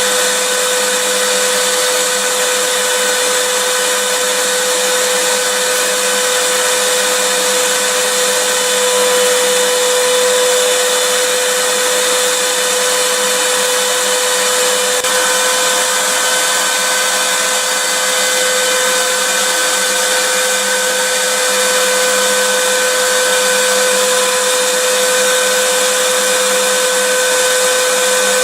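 Vacuum cleaner motor running steadily, a constant rushing hiss with a steady hum under it.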